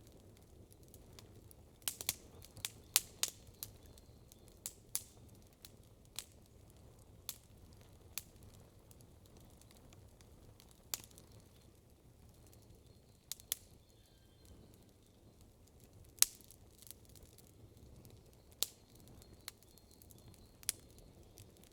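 Campfire crackling: burning wood gives off scattered sharp pops and snaps, a quick run of them about two to three seconds in and a loud single pop past the middle, over a faint steady low background.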